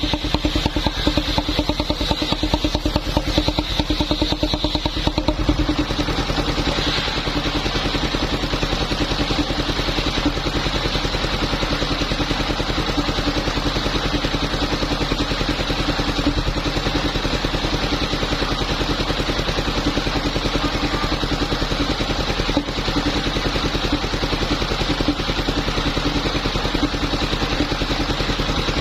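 Engine-driven wood saw running steadily, sawing waru timber, with a continuous engine note.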